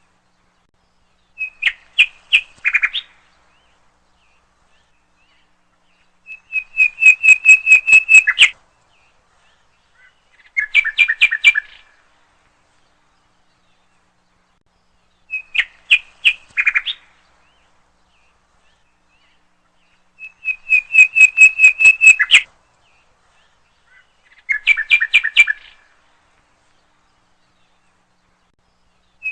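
A songbird singing short phrases of rapid repeated notes, six phrases with silent gaps between them. The same sequence of three phrases repeats identically, as a looped recording does.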